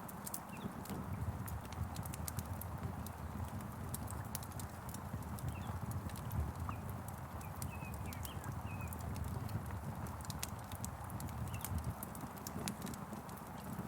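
Wood fire crackling, with irregular sharp pops and snaps over a steady low rumble, and a few short faint bird chirps now and then.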